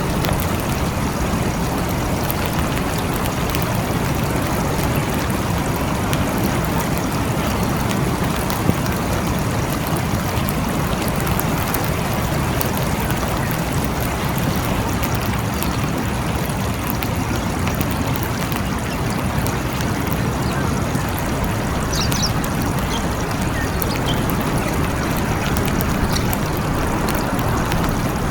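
Steady rain falling, an even unbroken hiss with no thunder. A few faint, short high chirps come through about three-quarters of the way in.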